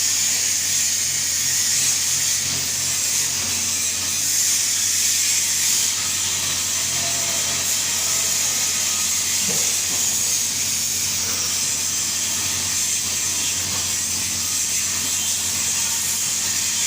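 GTAW (TIG) welding arc burning continuously: a steady hiss over a constant low hum.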